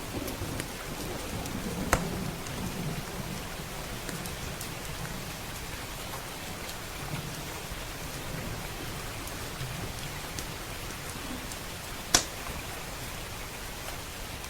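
Steady heavy rain with a low rumble of thunder dying away over the first few seconds. A crackling wood fire gives two sharp pops, about two seconds in and, louder, near the end.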